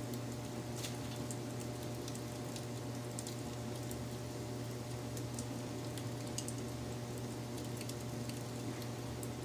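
Wood fire crackling: scattered small pops and snaps over a steady low hum.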